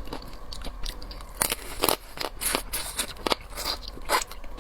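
Crab shell cracking and crunching as a crab is broken open and eaten: a run of irregular sharp cracks and crunches.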